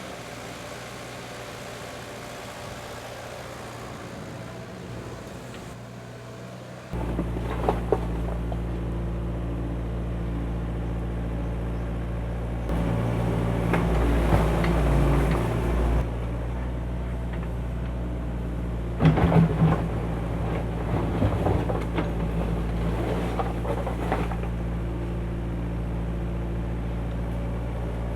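Engine of heavy earthmoving machinery starting to run loudly about seven seconds in after a quieter steady hum, then holding a steady low drone that swells for a few seconds in the middle, with scattered metallic knocks and clanks.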